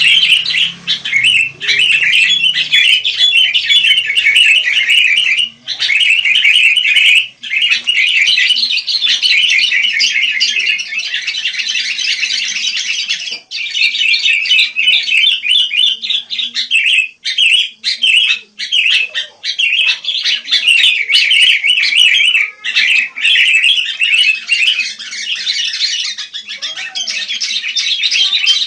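Sooty-headed bulbuls (kutilang) chattering in a dense, fast stream of high chirps and squawks, with a few brief pauses.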